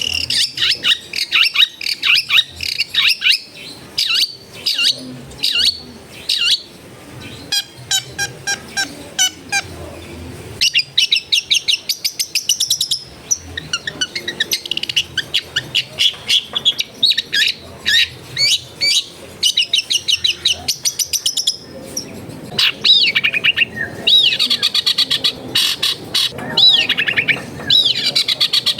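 Long-tailed shrike (cendet) singing a loud, varied song of rapid chattering trills and fast runs of repeated high notes, broken by short pauses.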